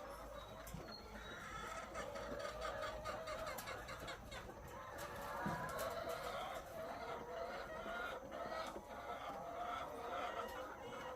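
A flock of egg-laying hens clucking and calling, many birds overlapping in a steady chorus, with scattered light clicks and knocks.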